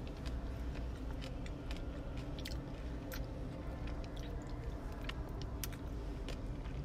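Close-up chewing of a Magnum ice cream bar, its nut-studded chocolate coating cracking and crunching in irregular sharp clicks, over a steady low hum.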